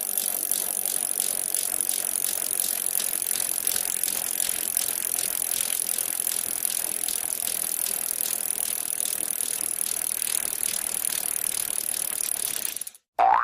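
Sound effect of a bicycle's freewheel hub ticking rapidly as the bike coasts, a steady dense clicking with a hiss, which cuts off suddenly just before the end.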